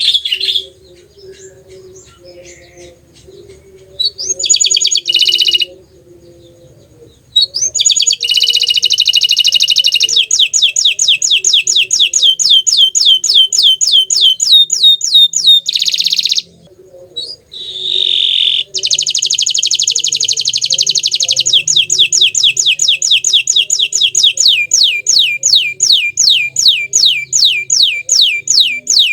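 Green domestic canary singing: a few short phrases with pauses, then long rolling trills of rapid, repeated downward-sliding notes, about five a second, broken by a brief pause partway through.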